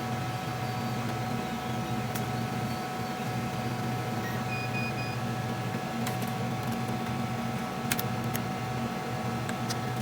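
Small CNC machine running with a steady hum, with a few sharp clicks and three short beeps about halfway through.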